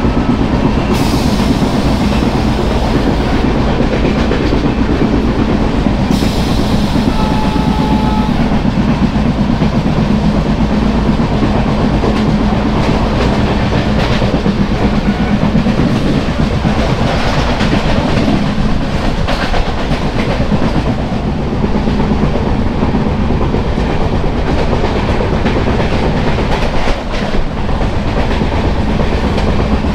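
Passenger express train running at speed, heard from aboard the coaches: a steady rumble with the wheels clattering over the rail joints.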